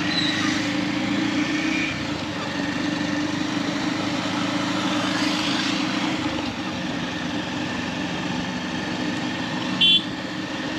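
Motorcycle engine running steadily while riding through traffic, with road and wind noise. A short horn beep sounds near the end.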